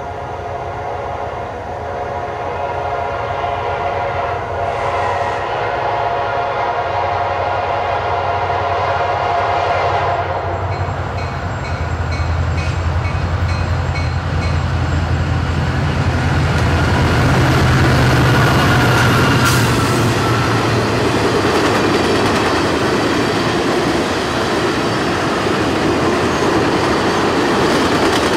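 CSX business train led by EMD F40PH diesel locomotives approaching and passing. The horn sounds a sustained chord for about the first ten seconds, then the locomotives' diesel engines rumble louder as they go by, followed by the steady noise of the passenger cars' wheels rolling on the rails.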